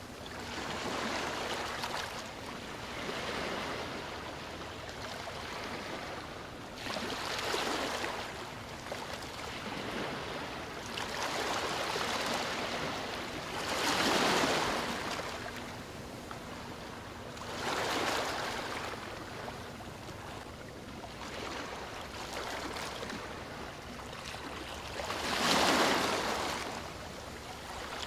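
Sea waves breaking and washing in, an even hiss that surges and falls back every few seconds, with the strongest surges about halfway through and near the end.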